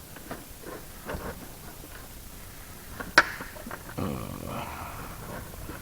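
Small clicks and scrapes of metal parts being handled while a control cable is fitted to the oil injection pump lever of a Rotax 503 engine, with one sharp click about three seconds in and a short scraping slide soon after.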